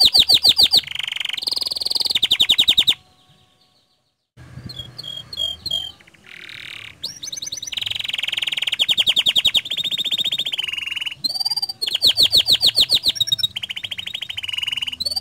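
Domestic canary singing a long, loud song of fast trills and rolling tours, each phrase a quick run of repeated notes, with a silent break of about a second and a half after the first few seconds.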